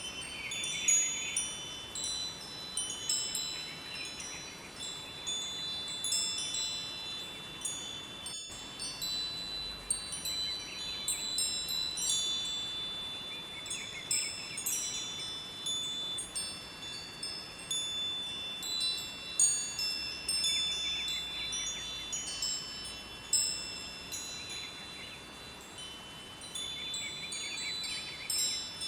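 Wind chimes ringing, many high notes struck irregularly and overlapping as they ring on, over a faint steady rush of river water.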